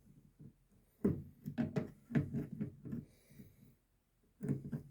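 Knocks and clanks of a wrench being set on and working a stiff supply valve on the tankless water heater's pipework. There is a sharp knock about a second in, a run of smaller irregular knocks after it, and more near the end.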